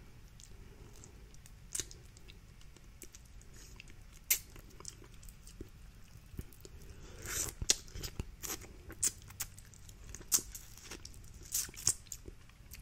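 Close-miked eating of a seafood boil: chewing and crunching, with scattered sharp cracks and clicks that come more often in the second half.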